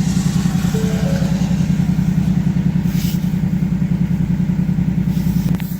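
2019 Ford Mustang GT's 5.0-litre Coyote V8 idling steadily. There is a short click near the end, after which the engine sounds a little quieter.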